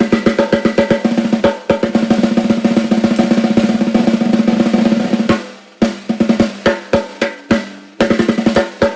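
DW Collector's Series 14x6.5 aluminum snare drum, with an Evans UV1 batter head, a 3 mil Evans 300 snare-side head and PureSound Blaster snare wires, played with fast strokes. About two seconds in, the strokes run into a roll that lasts about three seconds, with short breaks between phrases after that. The drum rings with a clear pitched tone under the snare buzz.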